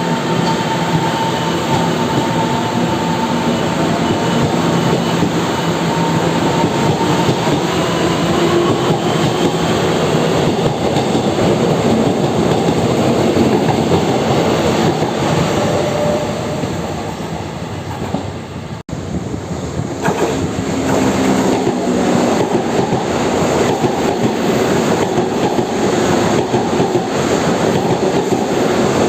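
Electric commuter train pulling out of a station, with a faint motor whine that glides slowly in pitch over the rumble of the wheels. After a sudden break about two-thirds through, another train runs through the station with wheels clattering over the rail joints.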